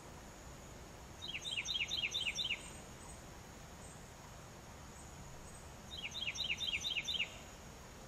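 A songbird sings two short songs about four seconds apart, each a quick run of about six repeated, downward-slurred whistled notes lasting just over a second.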